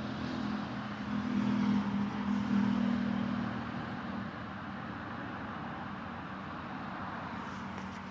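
A motor engine's low, steady hum that swells for a couple of seconds and then fades, over a constant hiss.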